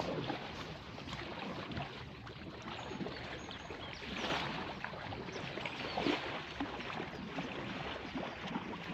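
Paddle strokes splashing and water trickling around an Anfibio Rebel Duo packraft as it is paddled, with louder splashes about four and six seconds in.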